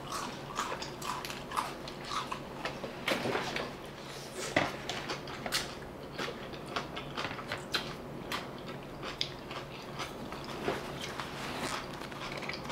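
Eating sounds: fingers sucked clean, then a forkful of coleslaw of raw shredded cabbage chewed, with crisp crunches among many irregular wet clicks of the mouth.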